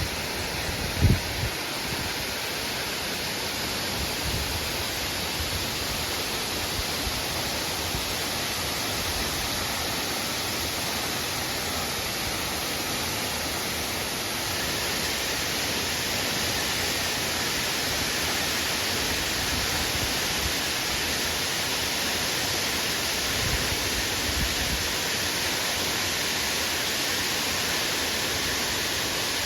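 Steady rush of the Yasu-no-Taki waterfall, with a brief low thump about a second in.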